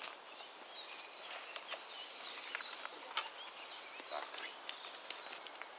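Small songbirds chirping and twittering, many short high calls overlapping throughout, with a few light clicks.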